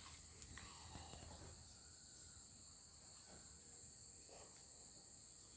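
Near silence with a faint, steady high-pitched hiss or buzz, and a few faint short sounds.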